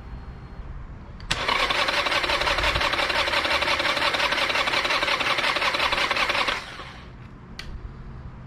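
Starter motor of a 2016 Harley-Davidson Sportster XL1200C cranking its 1200 cc V-twin for about five seconds without it catching, then stopping: the engine won't fire because the ignition has no spark.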